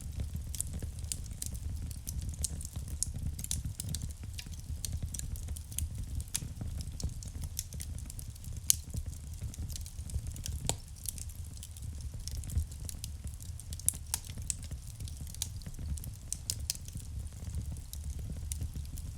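Wood fire crackling in a fireplace: irregular sharp pops and snaps over a low, steady rumble of burning logs, with a louder pop about nine seconds in and another around fourteen seconds.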